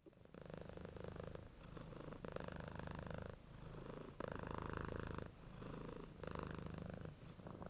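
A cat purring, in alternating phases of about a second each as it breathes in and out.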